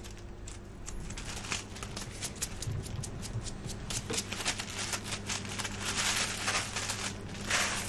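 Irregular crackling and rustling, like dry leaf litter and twigs being disturbed, over a faint steady low hum. The clicks come thick and fast, busiest near the end.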